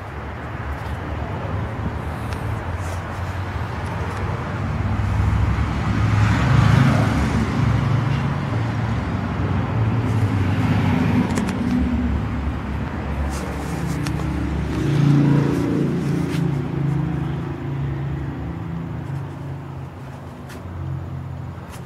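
A motor vehicle's engine running under a low rumble, swelling twice and sliding down in pitch near the second swell.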